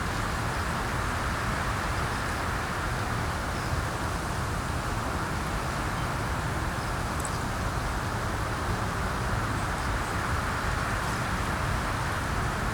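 Steady wind blowing outdoors, with a low rumble of wind buffeting the microphone and a wash of rustling. A few faint high ticks come and go over it.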